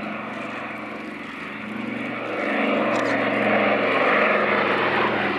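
Douglas Dakota's twin Pratt & Whitney Twin Wasp radial piston engines running steadily in flight with a propeller drone. The sound grows louder about halfway through.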